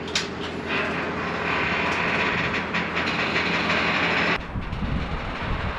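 Heavy machinery running with a steady metallic clatter and grinding as a skid loader moves an old truck off a trailer on chains. The clatter stops abruptly about four seconds in, leaving a low rumble.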